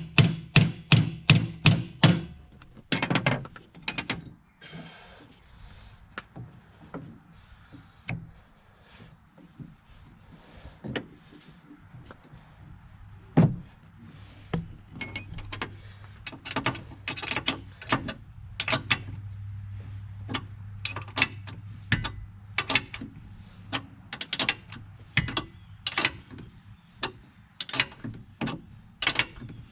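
Hand tools working on a steel finish-mower deck. A quick run of regular clicks at about four a second gives way to scattered metal clicks and knocks.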